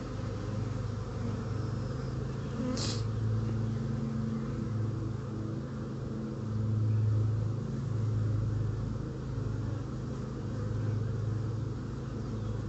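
Steady buzzing of a large honeybee colony, a freshly hived strong swarm, around an opened hive during a frame inspection, with one brief click about three seconds in.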